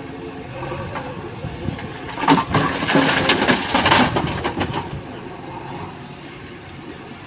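Diesel machinery running steadily, with a loud clatter of stones pouring and tumbling for about two and a half seconds, starting about two seconds in.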